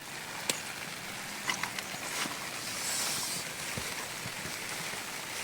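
Steady outdoor hiss with a few faint clicks and taps, swelling slightly about halfway through.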